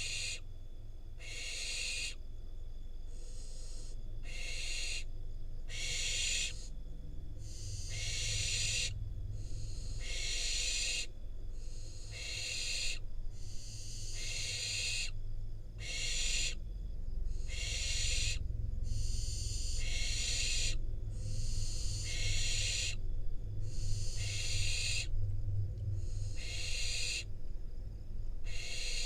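Barn owl young giving their hissing begging calls, a raspy hiss about once a second, over a steady low rumble.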